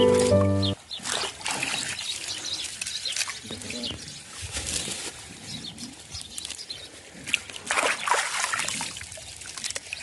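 Water trickling and splashing irregularly, after background music cuts off just under a second in.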